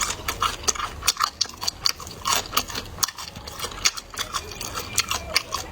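Close-up chewing of a crispy fried glutinous rice ball: an irregular run of crisp crunches and mouth clicks, several a second.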